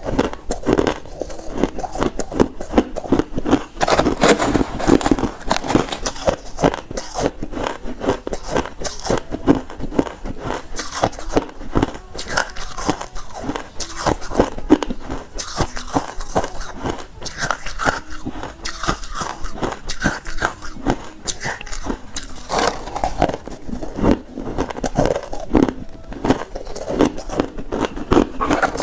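Refrozen crushed ice being bitten and chewed close up, a dense, irregular run of crunches and crackles.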